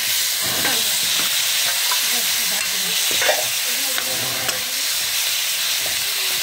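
Chicken pieces sizzling in oil in a steel wok while a steel ladle stirs them, with the ladle scraping and clinking against the pan several times.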